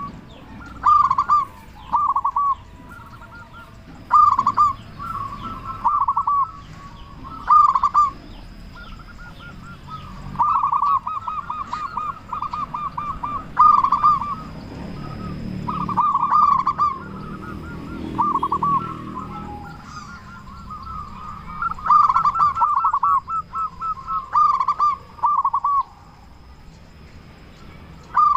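Zebra dove (perkutut) cooing: short runs of rapid rolling coo notes, one run every two or three seconds.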